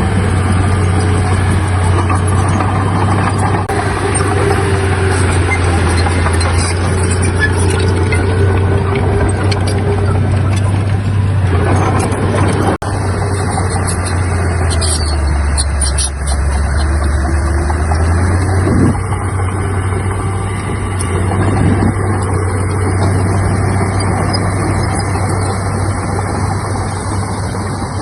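Heavy diesel engine of earthmoving machinery running steadily, its low note dropping for a few seconds past the middle and then rising back. There is a sharp break a little before halfway.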